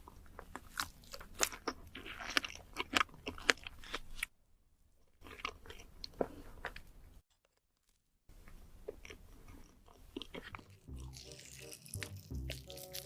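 Close-miked eating: sharp, crisp crunching bites and chewing of food, in three stretches separated by two abrupt silent gaps.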